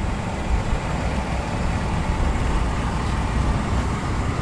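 2016 Nissan Murano's 3.5-litre V6 idling: a steady low rumble heard at the front of the car.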